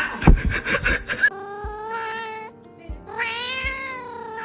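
Cat yowling: two long, drawn-out meows, the second rising and then falling in pitch, after about a second of rough, noisy crackle at the start.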